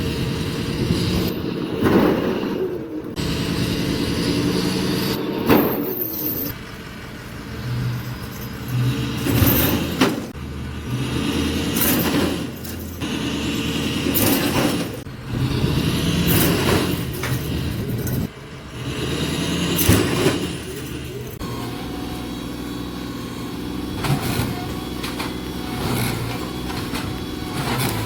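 Compact diesel tractor engine running and revving under load, with loud cracks and crashes at irregular intervals as a building is torn down.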